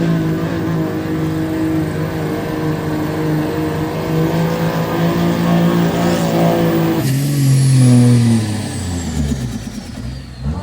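Dodge pulling truck's engine running at full throttle under load, holding a steady note. About seven seconds in, the throttle is let off. The engine note falls away as the truck slows and a high whistle fades downward.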